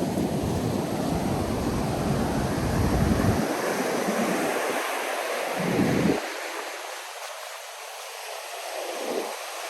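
Ocean surf washing onto the beach, a steady rush of breaking waves. A low rumble, typical of wind buffeting the microphone, comes and goes over it, heavy for the first half and dying away for a few seconds near the end.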